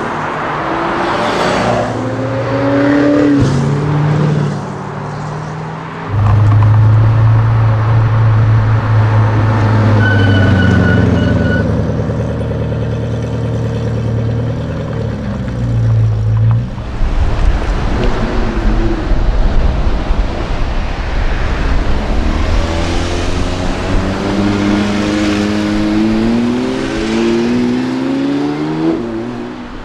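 High-performance supercar engines accelerating hard and passing by, their pitch climbing repeatedly through the gears. A sudden loud low drone sets in about six seconds in, and the pitch falls away in the middle as a car goes past.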